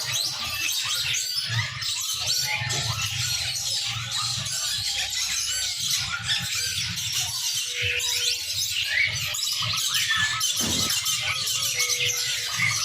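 Many small birds chirping and twittering at once in a dense, unbroken chorus, over a low steady rumble.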